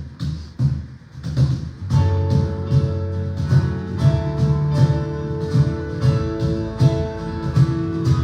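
Live band playing instrumental music, with strummed guitar. Beats come about twice a second at first; about two seconds in, the full band joins with held chords over a steady bass.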